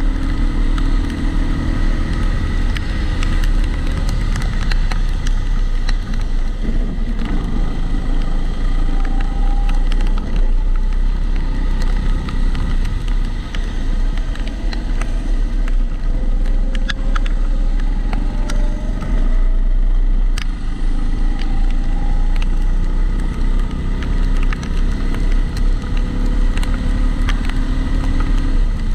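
Kombikart Eco kart heard onboard at speed, its engine running continuously with the pitch rising and falling through the corners over a heavy low rumble. Frequent small clicks and rattles run through it, a regular extra noise that the uploader probably puts down to the GoPro sitting in its housing.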